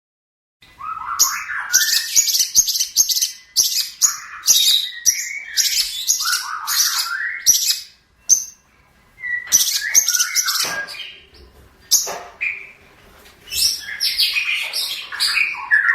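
Long-tailed shrike (cendet) singing a fast, busy song of varied chattering and whistled notes, with short breaks about eight and eleven seconds in.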